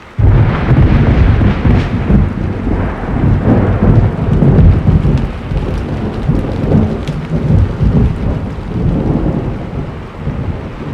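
Thunder over steady rain: a loud clap breaks in suddenly just after the start, then rolls on as a long, low rumble that slowly fades.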